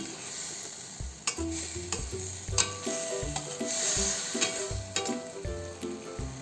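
A metal spatula stirs and scrapes chopped chayote, long beans and tofu in a stainless steel wok, with the steady sizzle of the vegetables frying and a few sharp clicks of the spatula against the pan.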